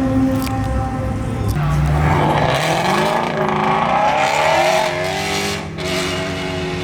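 A modified performance car's engine revving and accelerating hard as it pulls away: a steady note at first, then a loud surge about a second and a half in, with the pitch climbing and sweeping through several gear-like rises.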